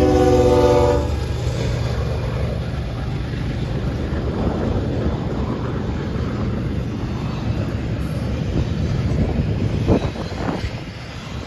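Freight train's air horn sounding a chord of several tones that cuts off about a second in, followed by the train running past with a steady low rumble and wheel noise. A couple of sharp clanks come near the end.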